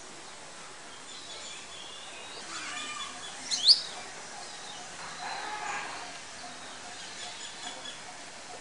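Outdoor ambience: a steady background hiss with birds chirping, one loud sharp chirp about three and a half seconds in, and faint voices around the middle.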